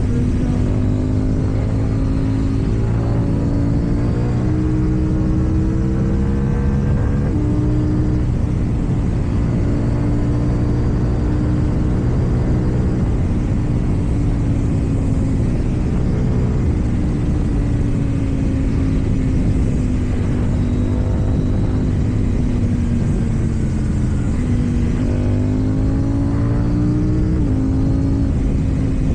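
KTM Duke 790's parallel-twin engine through an Akrapovic exhaust, running at a steady cruise with a low rumble underneath. Twice it revs up and then drops sharply in pitch as it shifts up: once about seven seconds in, and again near the end.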